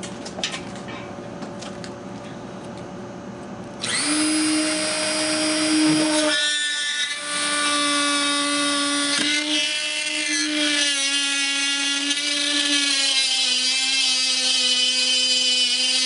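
Dremel rotary tool with a router bit in a circle-cutter attachment, switched on about four seconds in and running with a high whine. Around two seconds later it settles into a slightly lower, slowly sagging pitch as the bit plunges and routes through 1/8-inch clear acrylic.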